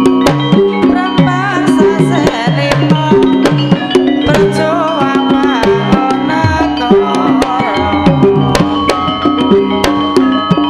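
Javanese gamelan music accompanying a lengger dance: kendang hand drums with pitch-bending strokes, sharp frequent strikes and sustained pitched tones from the gong-chime and metallophone instruments.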